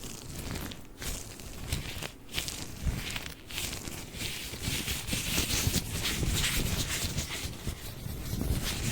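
White latex gloves handled and rubbed close to a sensitive microphone, making an irregular crinkly rustling with many small crackles.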